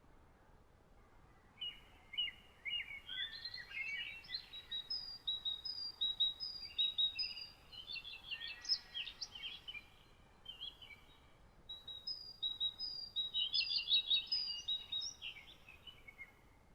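Songbird singing in two long phrases of quick, varied chirps and short whistled notes, the first beginning about a second and a half in and the second following a brief pause. A faint steady hiss sits underneath.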